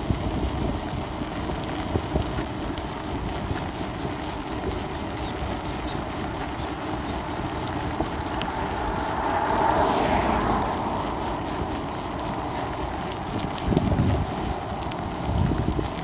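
Wind buffeting the microphone of a phone taped to the front of a moving bicycle, with road rumble and a few knocks from the mount. The noise swells for a couple of seconds about ten seconds in.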